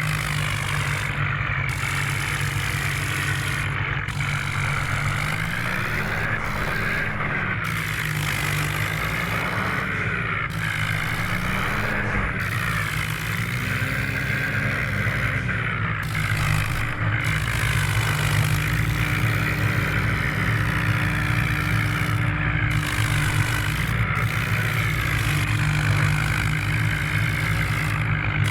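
Vehicle engine running steadily, its pitch rising and falling slightly several times in the first half, then holding steady.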